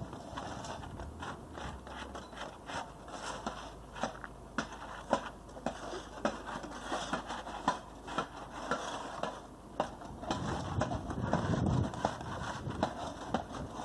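Irregular scraping and clicking, with a louder, rougher stretch about eleven seconds in.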